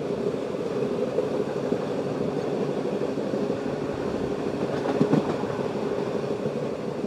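Passenger train running along the track, heard from inside the coach: steady rumble and hum of the moving train, with a brief rattle about five seconds in.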